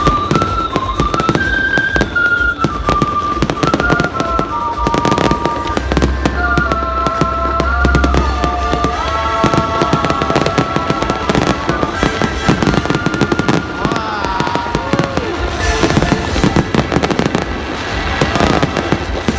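Fireworks display: a dense, continuous run of crackles and bangs from aerial fireworks, with melodic music playing alongside.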